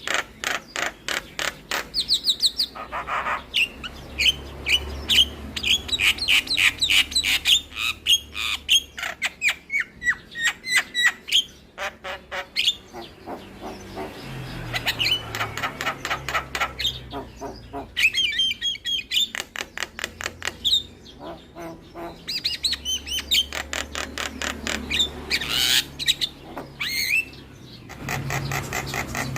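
Javan myna (jalak kebo) singing a long, varied song: rapid runs of sharp clicks and chatter mixed with short whistled notes, some gliding up and down.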